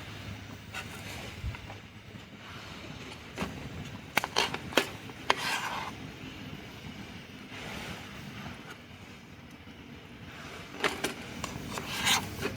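Handling sounds: scraping and rubbing, with a quick run of sharp clicks about four seconds in and a few more near the end.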